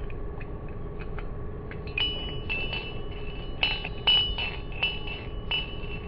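Series of light, ringing clinks, like taps on a glass or ceramic dish, sparse at first and then about two to three a second from two seconds in, over a steady faint hum.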